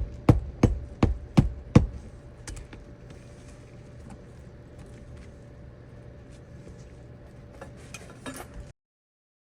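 A quick run of six sharp knocks, about three a second, followed by scattered light clicks and rattles over a faint steady hum, with a few more clicks shortly before the sound cuts off abruptly near the end.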